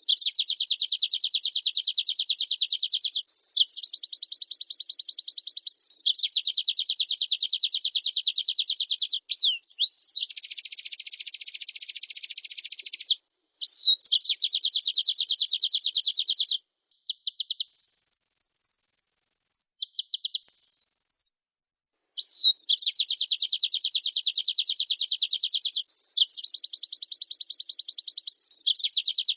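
A white-eye (pleci) singing in full voice: a string of high, very fast trilled phrases of about three seconds each, each often led in by a short rising note, with brief pauses between them. About two-thirds of the way through come two short, shriller bursts.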